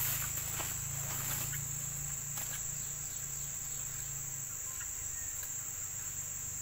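Insects trilling in one steady high-pitched drone, with a few faint ticks in the first seconds.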